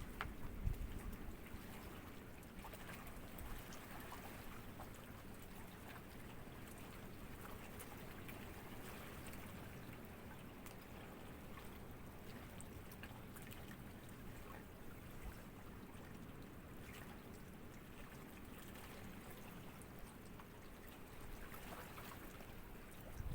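Faint, steady trickling and lapping of shallow water, with small splashes and ticks, a few slightly louder ones in the first second.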